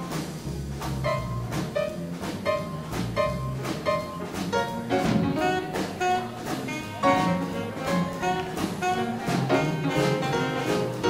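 Live big band playing hot swing-era jazz: saxophones and brass over double bass and drum kit, with a steady beat about two a second.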